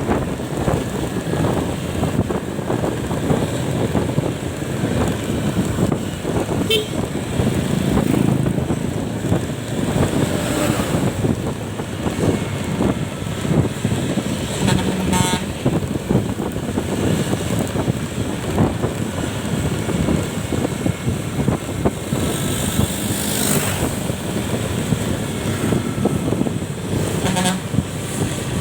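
Steady road and wind noise from a moving vehicle on the road, with a few brief horn toots, one at about seven seconds, one midway and one near the end.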